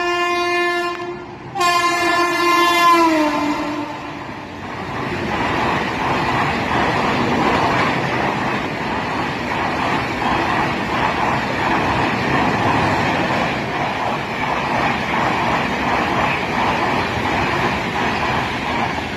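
WAP-7 electric locomotive's horn sounding twice, the second blast dropping in pitch as the locomotive goes by. Then comes the steady rumble and rattle of the train's coaches running past.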